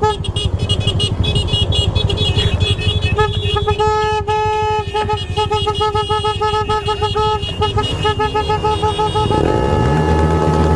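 Vehicle horn honking in a string of short and long toots over engines running steadily. Near the end an engine revs up.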